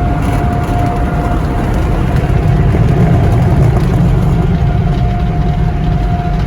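Automatic car wash air-dryer blowers running: a loud, steady rushing rumble with a thin steady whine over it.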